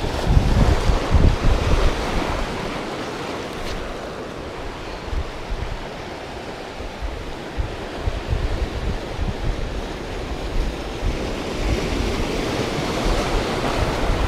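Wind buffeting the microphone in uneven gusts over a steady wash of sea noise.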